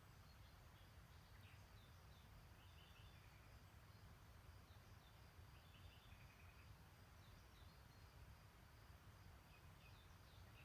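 Faint songbirds chirping, with many short high notes and a few brief trills scattered throughout, over a steady low rumble.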